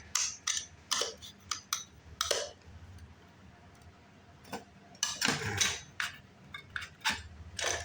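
Parts of a light fixture being handled and fitted together: scattered small clicks and clinks, a quieter stretch in the middle, then a busier patch of handling noise.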